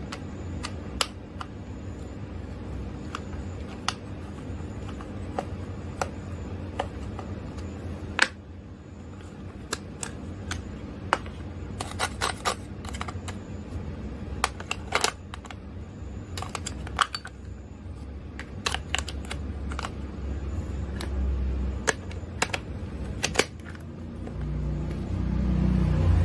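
Scattered light plastic clicks and taps from small toy parts and packaging being handled, over a steady low hum. Near the end a louder low rumble starts.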